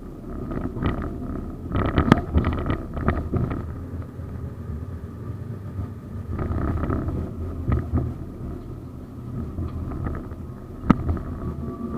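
Moscow 71-931M Vityaz-M low-floor tram running, a steady low rumble with a faint steady whine, broken by bursts of clattering knocks from the wheels on the track, about two seconds in, again around the middle and once sharply near the end.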